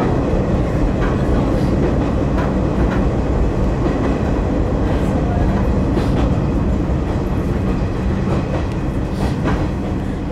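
Izuhakone Railway Daiyuzan Line electric train running along the track, heard from on board: a steady rumble of wheels on rail with a low motor hum, and a few sharp clicks as the wheels pass over the track.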